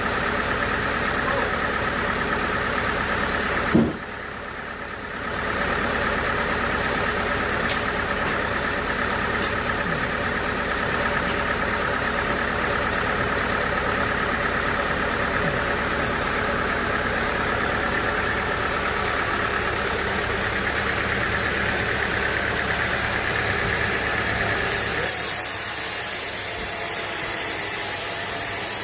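Sawmill machinery running steadily with a continuous mechanical hum. There is a sharp knock about four seconds in, then a brief dip before the running sound resumes. Near the end the sound turns thinner and hissier.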